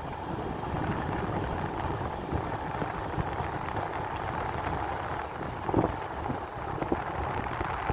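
A car driving along a rough forest road: steady road and wind noise, with a few short knocks as it bumps over the track.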